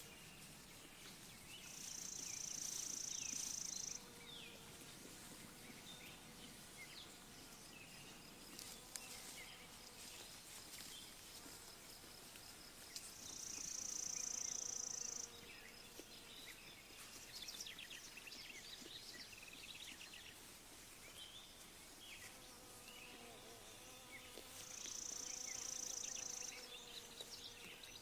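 Quiet pasture ambience with a high-pitched insect buzz three times, about two seconds each and roughly eleven seconds apart, louder than everything else. Small birds chirp in the background.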